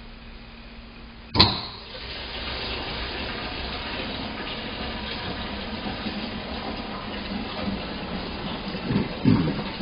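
A sharp click, then water running steadily from the taps as they are turned on, with a couple of dull knocks near the end.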